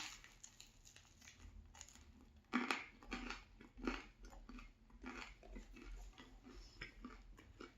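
Chewing on a crunchy buttered baguette: irregular crunches, the loudest about two and a half seconds in.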